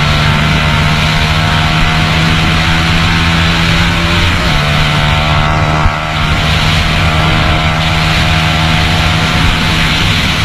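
Single-cylinder 150 cc motorcycle engine running hard at high, steady revs at speed, heard from on board with wind rushing over the microphone. The sound dips briefly about six seconds in.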